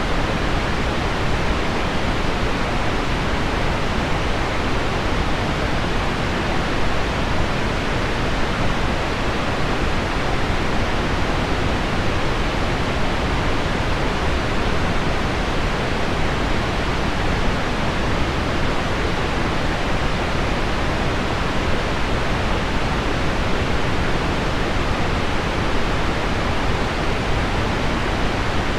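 Steady, even hiss of heavy rain on window glass blended with low pink noise, with no single drops standing out and no change in level.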